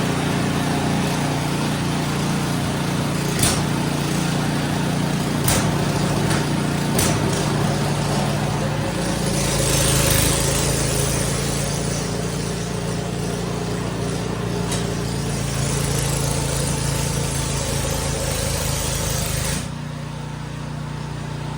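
Ariens snow blower's single-cylinder engine running steadily just after a primed pull start, with a few sharp clicks and a swell in level about ten seconds in. Near the end the hiss drops away suddenly while the engine keeps running.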